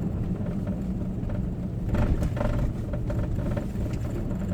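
Steady engine and tyre noise heard inside a four-wheel-drive vehicle's cabin, driving slowly over a snow-covered road, with a louder, rougher stretch about two seconds in.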